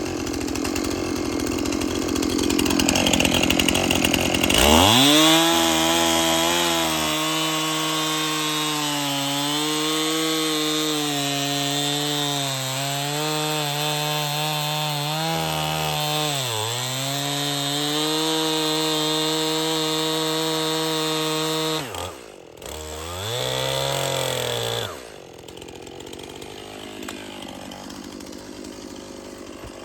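Two-stroke chainsaw revving up about five seconds in and held at high revs through a long cut, its pitch dipping slightly under load. The throttle comes off about twenty-two seconds in, the saw revs briefly once more, then drops back to a quieter idle.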